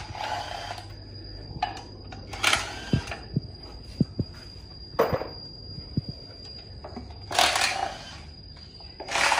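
Metal engine parts and tools clanking and scraping as they are handled, in five short bursts with a few sharp clicks between them. A steady high-pitched whine runs underneath.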